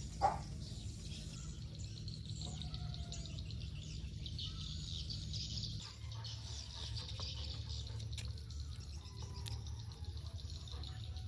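Birds chirping in the background over a steady low rumble, with one brief louder sound just after the start.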